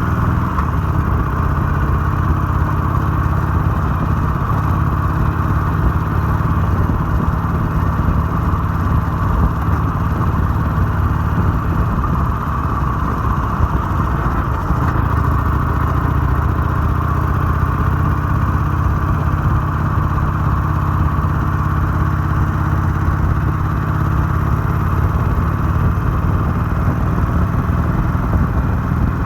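Harley-Davidson 883's air-cooled V-twin engine running steadily at an even pitch, its raw exhaust note unbroken and without marked revving.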